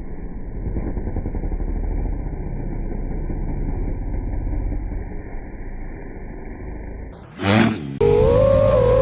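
Dull, muffled dirt bike engine noise with no treble. About seven and a half seconds in there is a sudden loud burst, then a clearer dirt bike engine revving, its pitch wavering up and down.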